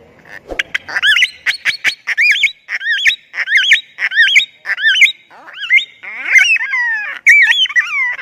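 Rosy-faced lovebird calling: a rapid string of short, shrill chirps and squawks with sharp clicks between them, cutting off suddenly at the end.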